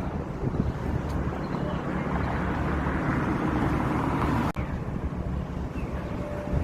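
Strong wind buffeting the microphone, a dense low rumble, which drops out briefly about four and a half seconds in.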